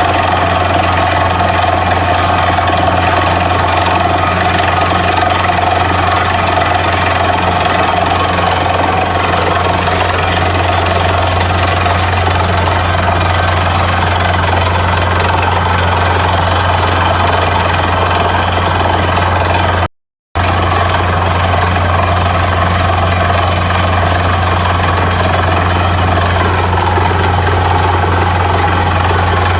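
Borewell drilling rig running steadily with a constant heavy engine hum and machine noise. It cuts out completely for a split second about two-thirds of the way through, then carries on unchanged.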